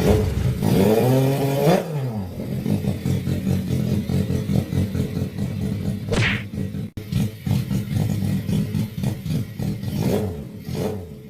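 Home-built two-cylinder V-twin motorcycle engine, a Honda Tiger engine with an added Suzuki Satria F cylinder, running and being revved, rising in pitch and dropping back about a second in and again near the end.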